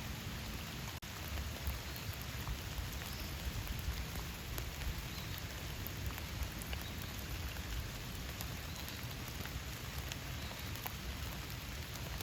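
Steady rain falling in a forest: a constant hiss with scattered individual drops ticking, over a low rumble. There is a momentary dropout about a second in.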